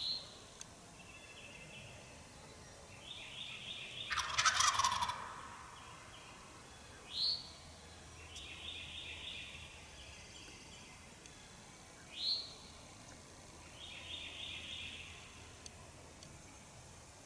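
An eastern wild turkey gobbler gobbles once, about four seconds in, the loudest sound. Around it other birds call: a short, sharp upward note about every five seconds, with fainter high phrases in between.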